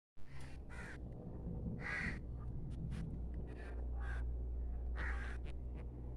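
Crows cawing: about six short, harsh caws at irregular intervals, over a steady low rumble.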